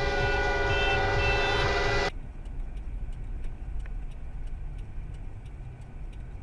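A loud vehicle horn held on one steady multi-note chord, cut off abruptly about two seconds in. After it comes a low, steady road rumble with faint scattered ticks, as heard from inside a moving car.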